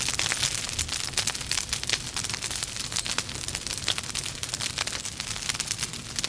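Wood logs burning in a fireplace, crackling with many quick, irregular pops over a low steady hiss of flame.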